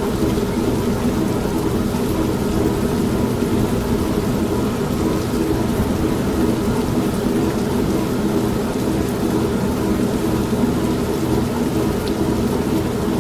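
Steady mix of rain with a low rumble of thunder and an old manual washing machine running, with no sudden claps or changes.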